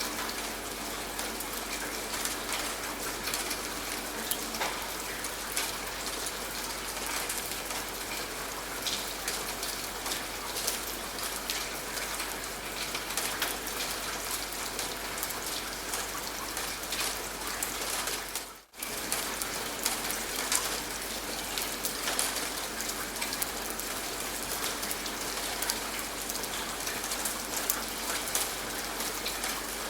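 Steady rain falling, an even hiss dotted with the patter of individual drops. The sound dips out for a moment about two-thirds of the way through, then returns.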